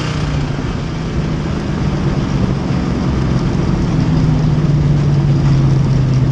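Race car engine running at low, steady revs, its pitch creeping up and growing a little louder toward the end.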